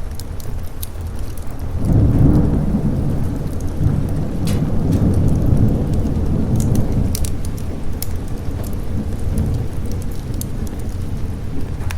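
A roll of thunder rumbles in about two seconds in and dies away over several seconds, over steady rain. Short sharp crackles, like a wood fire's, pop throughout.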